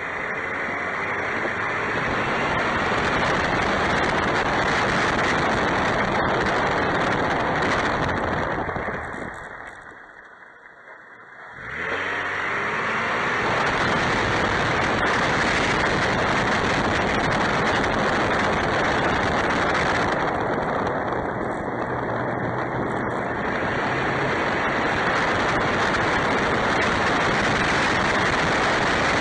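Truck cabin noise while driving, dying away as the truck comes to a stop about ten seconds in. A pop from the Toytec-lifted suspension comes as it moves off again, about a second later. Then the road noise returns steadily.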